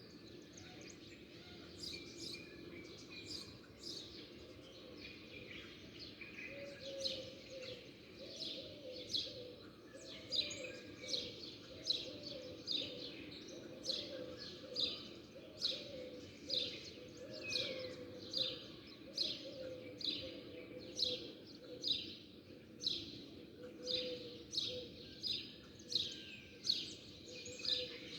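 Small birds chirping: a series of short, high, downward-sliding chirps that grow more frequent about ten seconds in, settling into a steady run of one or two a second.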